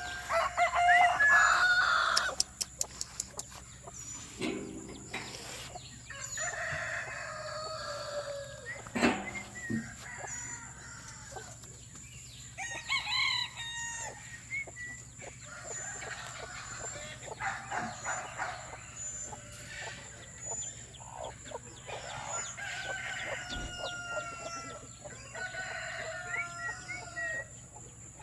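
Chickens and roosters crowing and clucking again and again, with a loud crow at the start. A quick run of clicks and a couple of single knocks come a few seconds in.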